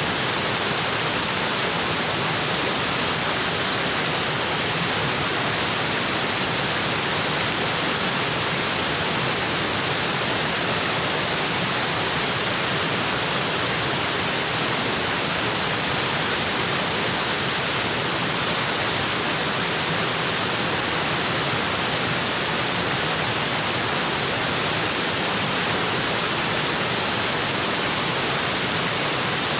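Waterfall: water pouring onto rocks in a steady, unbroken rush of noise.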